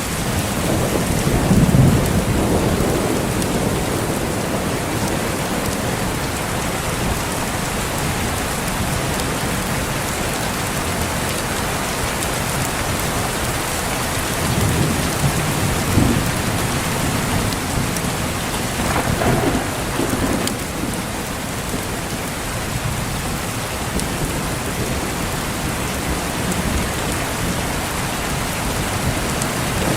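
Steady rain falling in a thunderstorm, with low thunder rumbling three times: about two seconds in, around the middle ending in a sharper crack, and again about two-thirds of the way through.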